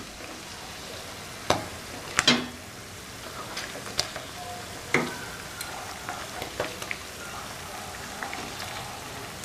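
Paneer cubes sizzling steadily as they shallow-fry in hot oil in a nonstick pan. A steel spoon clinks sharply against the pan now and then as the cubes are turned over.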